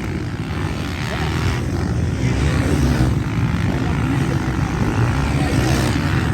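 Motocross motorcycle engines running on the track, revving with their pitch rising and falling.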